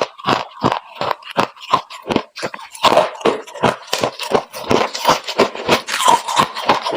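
Freezer frost being chewed and crunched in the mouth: a rapid, irregular run of crisp crunches, several a second, coming thicker from about three seconds in.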